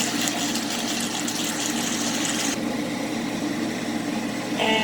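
Steady mechanical hum with a hiss over it; the hiss drops away about halfway through.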